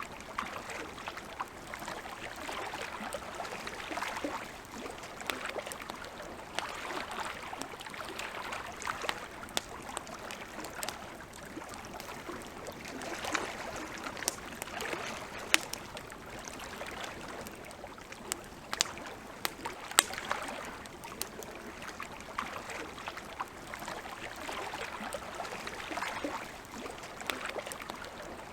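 Campfire crackling, with scattered sharp pops and snaps, over a steady, gently swelling wash of lake water lapping.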